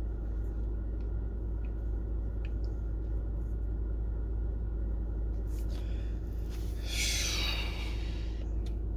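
Steady low rumble and hum inside a parked car's closed cabin, with a few faint ticks. About seven seconds in, a breathy hiss of under a second, a smoker blowing out smoke.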